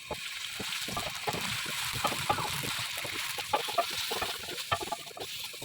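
Food cooking in a pot or pan: a steady hiss with many irregular pops and clicks.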